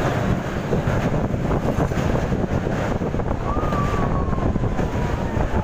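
EMU local train running over a steel truss railway bridge, heard from its open doorway: a steady rumble of wheels on rails mixed with wind buffeting the microphone. A thin high tone, sliding slightly down in pitch, sounds for about two seconds past the middle.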